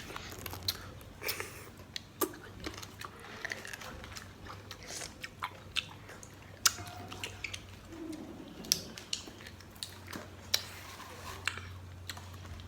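Close-up biting and chewing of crisp sour Marian plum fruit, with irregular sharp crunches scattered through the chewing.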